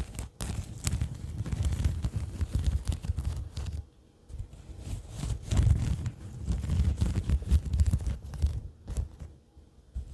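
Close-miked ASMR tapping and rubbing by fingertips, a dense run of quick crackly strokes with a deep rumbly body. It stops briefly about four seconds in and again just before the end.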